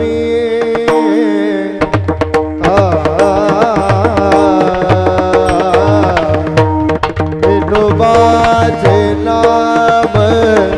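Indian song: a voice singing a melody with gliding ornaments over a steady hand-drum beat, which comes in about two seconds in.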